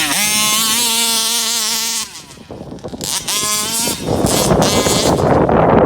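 A 34cc two-stroke gasoline engine in a large-scale RC buggy revs up hard and holds high revs, then drops off the throttle about two seconds in and blips again around three seconds. From about four seconds in, a loud, noisy rush buries the engine note.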